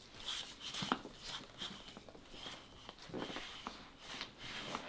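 Hand balloon pump being worked in quick strokes, a faint short hiss of air with each stroke, about two a second. The air is leaking back out rather than filling the twisting balloon.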